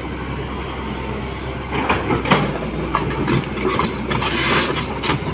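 Excavator's diesel engine running steadily, with irregular knocks and crunches joining from about two seconds in as the machine breaks up a house.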